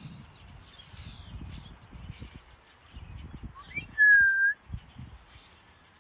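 Faint bird chirps over a low rumble. Near the end a short rising chirp is followed by one clear whistled note, held about half a second and dipping slightly, the loudest sound here.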